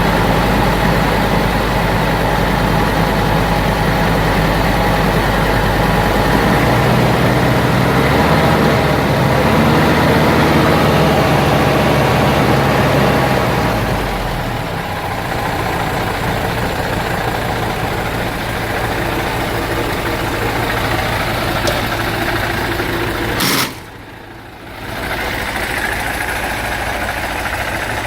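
MAN 16.192 4x4 tipper truck's diesel engine running, louder through the first half and settling to a steady idle about halfway. Near the end there is a sharp click and a brief drop to a much quieter sound, then the idle resumes.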